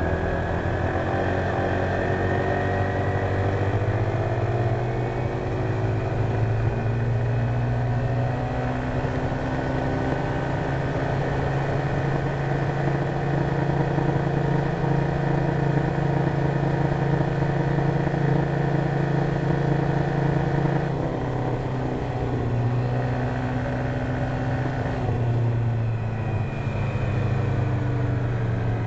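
Honda PCX150 scooter's single-cylinder engine running under throttle while riding. Its pitch climbs over the first few seconds, holds steady, dips suddenly about two-thirds of the way through as the throttle eases, then rises again near the end.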